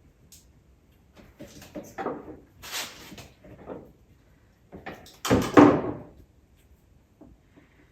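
Knocks and rattles of parts being handled during ATV reassembly work: several short knocks over a few seconds, with the loudest cluster about five seconds in.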